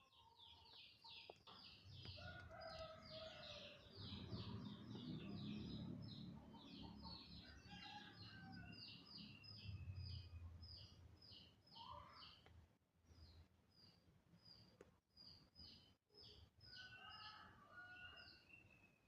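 Faint high chirping of birds, many short calls in quick runs, over a soft low rumble that fades out after about eleven seconds.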